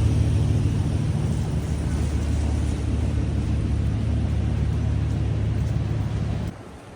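Steady low vehicle rumble with a deep droning hum, cutting off abruptly about six and a half seconds in.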